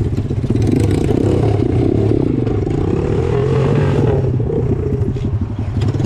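Straight-piped small motorcycle engine running with a rapid firing pulse, revving up about halfway through and dropping back.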